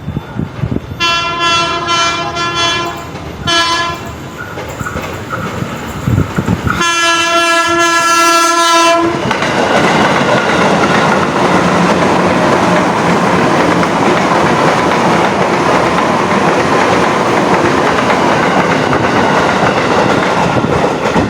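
A train horn sounds: a broken series of short blasts from about a second in, another brief one near four seconds, then one long blast of about two seconds. A train then passes close, with a loud steady rumble of wheels on rail for the rest of the time.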